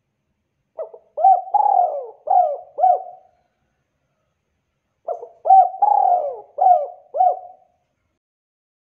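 Spotted dove (tekukur) cooing: two song phrases of about five coo notes each, with a pause of about two seconds between them.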